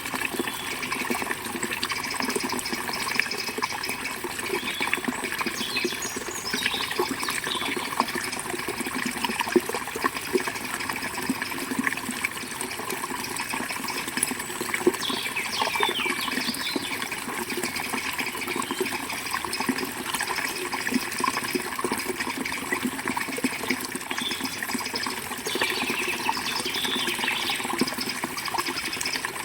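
Forest river flowing steadily, a continuous rushing and splashing of water. Small birds chirp briefly a few times over it.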